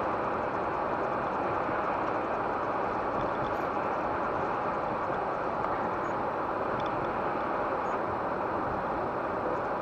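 Steady road and tyre noise with engine hum inside a moving car's cabin.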